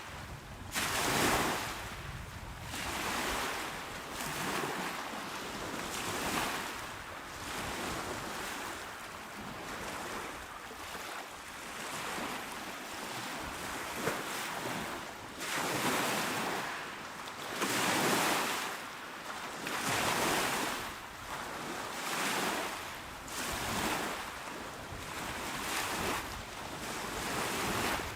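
Small ocean waves breaking and washing onto a shore, the surf swelling and fading every second or two, with a few stronger surges past the middle.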